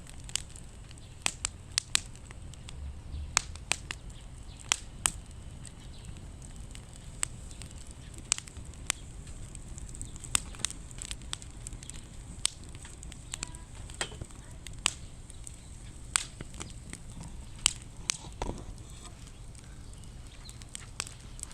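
Firewood burning in a fire pit stand, crackling with sharp pops and snaps at irregular intervals.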